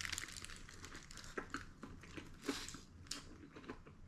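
Faint eating sounds: irregular chewing and crunching of fast food, with light rustling of paper packaging.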